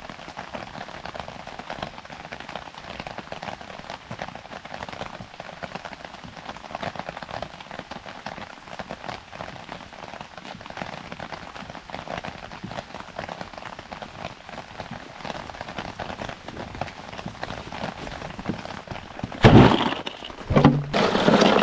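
Steady heavy rain falling on a tarp shelter, a dense haze of individual drop hits. Near the end come two loud, close bumps.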